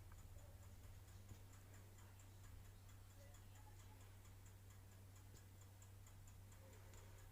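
Near silence: room tone with a low steady hum and faint, evenly spaced ticking, about three ticks a second.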